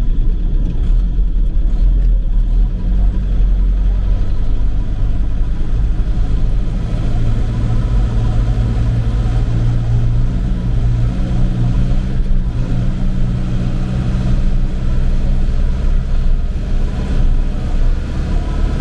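Tractor engine running steadily as it drives, hauling a manure box. It hums low throughout, and its pitch shifts a little as it goes.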